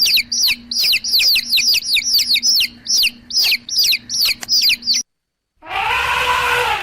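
Baby chicks peeping: a quick string of high, falling peeps, about three a second. The peeps stop about five seconds in, and after a short silence a louder, lower sound with a falling pitch begins near the end.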